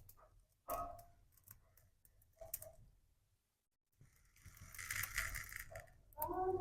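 Light clinks of small hard objects being handled and set down, each with a brief ringing tone, then a rustle and a short gliding pitched sound near the end.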